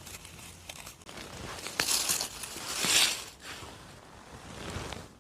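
Rustling and crackling in forest-floor litter, with scattered small snaps and a louder stretch of rustling about two to three seconds in.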